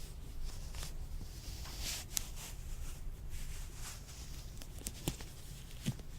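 Latex gloves rubbing and crinkling, with a few sharp clicks.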